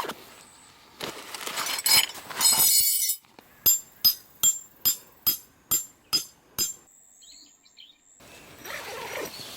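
A metal tent peg being hammered into the ground: about eight sharp, ringing strikes, a little over two a second, after a couple of seconds of rustling.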